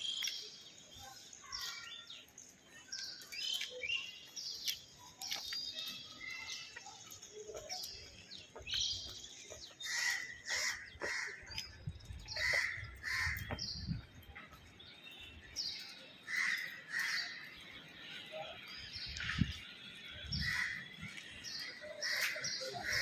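Birds chirping and calling over and over in short high notes, often in quick pairs. A few brief low thumps come through, the loudest about three-quarters of the way in.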